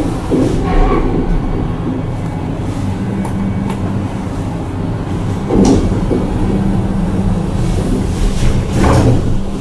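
KONE MiniSpace traction elevator running, a steady low rumbling hum with a few knocks and clunks from the car.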